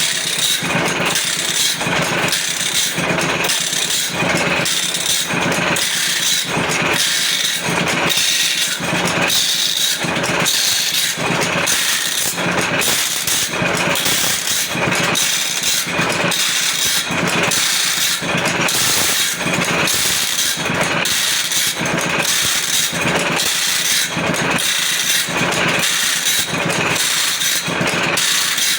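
Automatic band saw blade sharpening machine running, its grinding wheel passing tooth by tooth in a regular grinding stroke about one and a half times a second over a steady motor hum.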